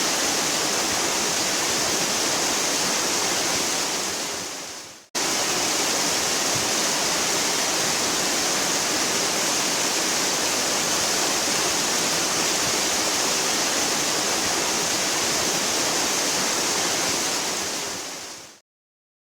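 Steady, heavy rush of a waterfall, strongest in the hiss range. It fades out briefly about five seconds in and cuts straight back in, then fades to silence near the end.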